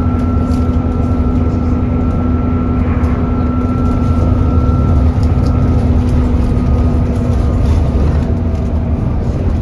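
Alexander Dennis Enviro400 double-decker bus running, heard from on board: a steady low rumble with a loud, steady whine over it, the 'hoover' sound. The higher part of the whine fades about halfway through.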